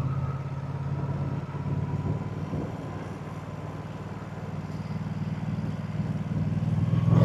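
Moto Guzzi transverse V-twin motorcycle engine and exhaust running while riding. It is quieter in the middle and grows louder near the end as the throttle opens.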